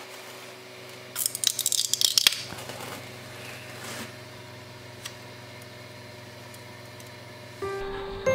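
A 3D-printed PLA branch with thin, wispy filament strands crackles and rattles for about a second as it is lifted off the print bed and handled, with a few lighter clicks after. A 3D printer hums steadily underneath.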